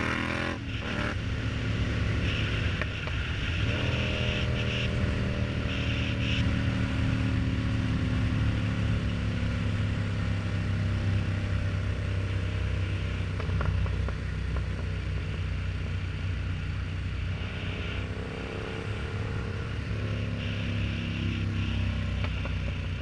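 Yamaha MT-07's parallel-twin engine running through an aftermarket exhaust while riding. The revs climb at the start and again a few seconds in, hold steady through a long cruising stretch, then drop and build again near the end.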